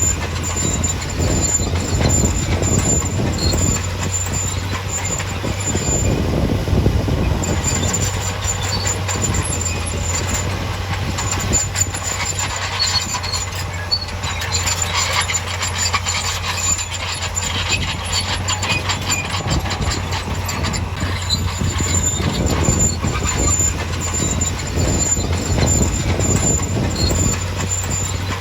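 Bulldozer running under load, its engine a steady low hum beneath the continuous clanking and squealing of its steel tracks, with the squealing strongest in the middle.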